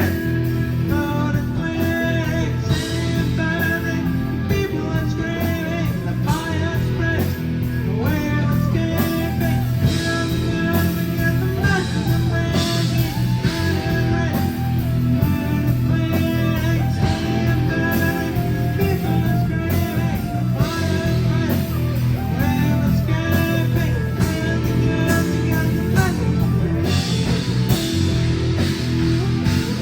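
Rock band playing live, with guitar over bass and steady drum hits.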